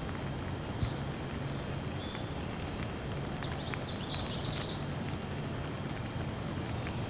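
Steady rain with scattered drops ticking, and a small bird chirping over it, breaking into a quick run of rapid notes a little past three seconds in.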